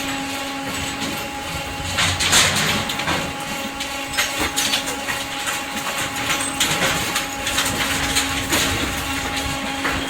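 Engine cracker running with a steady machine hum while it crushes scrap engines, metal crunching and clanking at irregular intervals; the loudest crunch comes about two seconds in.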